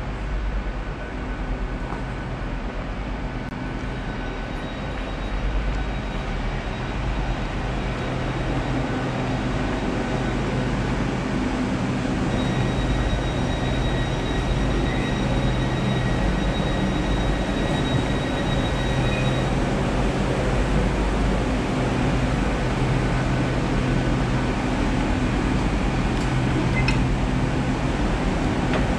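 Passenger train arriving and standing at a station platform: a steady low rumble and hum of its engines that grows louder about a third of the way in, with a thin high whine held for several seconds in the middle.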